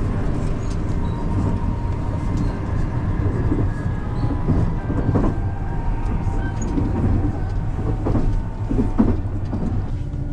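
Passenger train running at speed, heard from inside the car: a steady low rumble of wheels and running gear with a faint steady whine.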